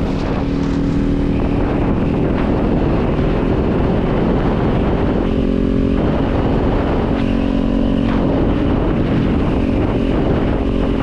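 Kawasaki Z400 motorcycle's 399 cc parallel-twin engine running, its exhaust note shifting several times.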